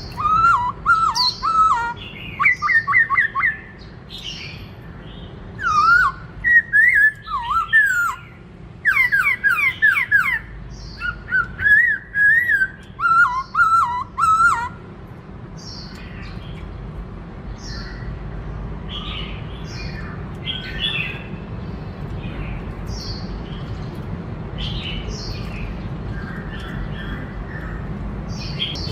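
Black-throated laughingthrush singing: loud, clear whistled phrases in quick runs with rising and falling glides for about the first fifteen seconds, then only softer, scattered chirps over a steady low background rumble.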